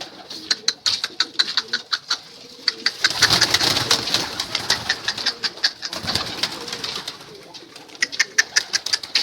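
Domestic pigeons beating their wings in quick claps as they are released to fly, with a louder flurry of wingbeats about three to four seconds in.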